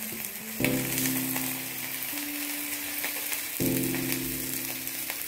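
Sorghum-flour thalipeeth frying in a little oil on a nonstick tawa: a steady sizzling hiss. Soft background music with held chords comes in about half a second in and changes twice.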